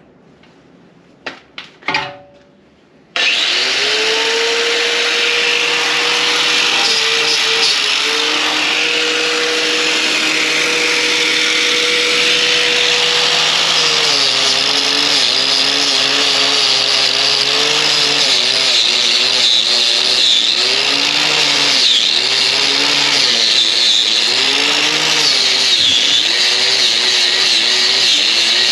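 Angle grinder fitted with a wire wheel, switched on about three seconds in after a few handling clicks, and running at speed. From about halfway its pitch dips and wavers again and again as the wheel is pressed against the frame to strip bedliner.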